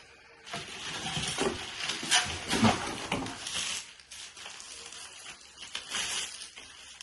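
Crinkling and rustling of plastic packaging as a vacuum attachment is unwrapped, busiest in the first four seconds and then sparser.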